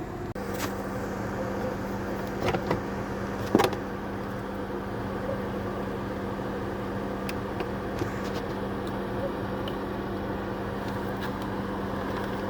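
Nissan Almera engine idling steadily, with a steady hum and a few sharp clicks in the first few seconds.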